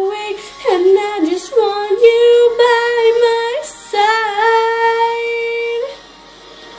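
A female voice singing a pop song, holding long notes and sliding between them. The singing stops about six seconds in.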